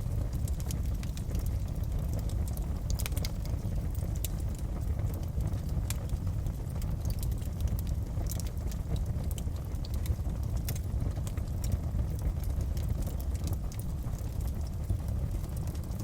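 Wood fire crackling in a fireplace: a steady low rumble of the flames with frequent irregular sharp pops and snaps.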